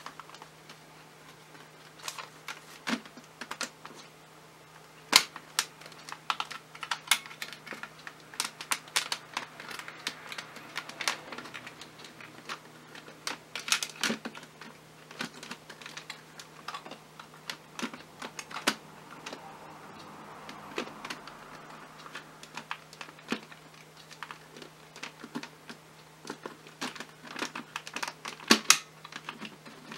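Irregular plastic clicks and knocks from the clear dust bin of a Dyson V6 Trigger+ handheld vacuum being handled and pushed onto the body, with sharper clicks about five seconds in and near the end. A faint steady low hum runs underneath.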